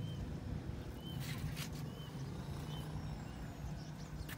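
Outdoor ambience: a steady low hum with about four short, faint chirps from a small bird. A brief rustle about a second in and a click near the end.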